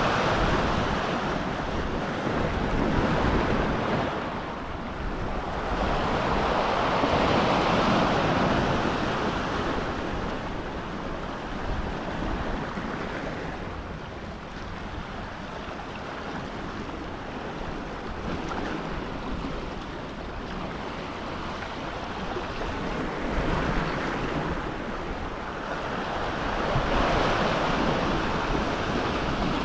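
Ocean waves breaking and washing against the rocks, swelling and easing every few seconds, with wind on the microphone.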